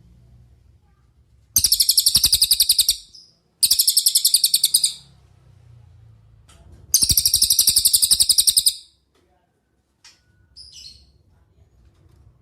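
Cililin songbird singing three loud, rapid, high-pitched trills of about a second and a half each, followed by a couple of faint short chirps near the end.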